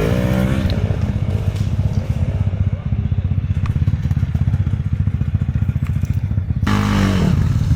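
Enduro motorcycle engine revving up and down. It drops to a steady low-rev run for several seconds, then revs hard again near the end.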